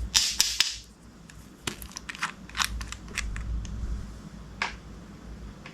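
Slime being pressed and worked by hand, giving irregular sharp pops and crackles, densest in the first second.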